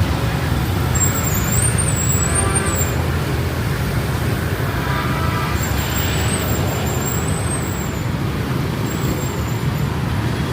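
Dense city street traffic, mostly motorbikes, with engines running past steadily.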